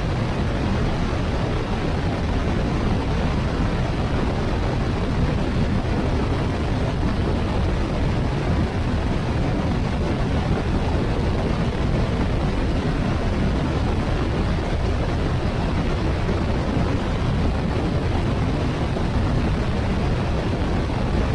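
Honda Africa Twin motorcycle cruising at highway speed: a steady rush of wind and road noise with the engine's drone underneath, unchanging throughout.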